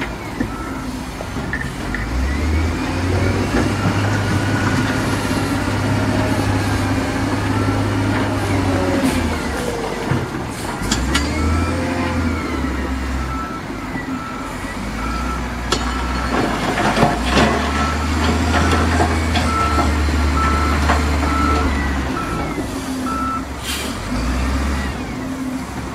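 Diesel engine of heavy construction machinery running, its load rising and falling, with a reversing alarm beeping in a steady on-off rhythm that is clearest in the second half. A few sharp knocks come about two thirds of the way in.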